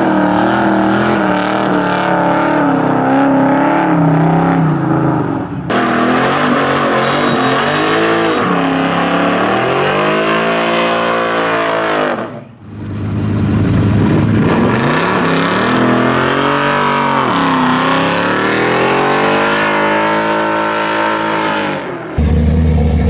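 Big American V8 muscle car engines heard in several short clips joined by abrupt cuts. The first runs at an uneven, wavering idle. The later ones are revved up and let fall back down several times.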